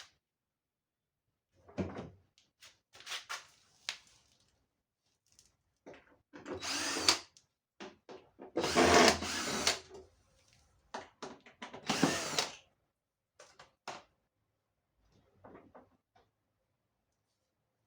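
Power drill-driver running in three short bursts of about a second each, amid scattered clicks and knocks.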